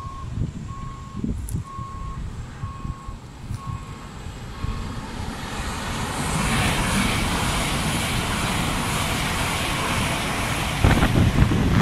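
A construction vehicle's reversing alarm beeps steadily, about three beeps every two seconds, fading out about five seconds in. An LNER Azuma high-speed train then passes at speed, its rush building up and holding as a steady hiss, with wind buffeting the microphone near the end.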